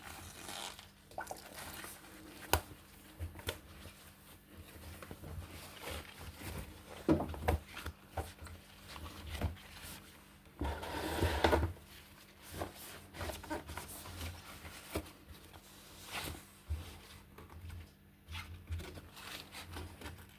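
Scattered clicks, knocks and scrapes of close-by handling, with a longer rustling scrape about eleven seconds in.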